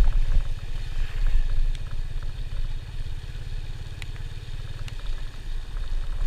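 Motorcycle engine running steadily while riding, a low pulsing rumble.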